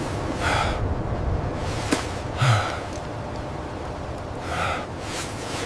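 A person breathing hard: three gasping breaths about two seconds apart, over a steady low rumble.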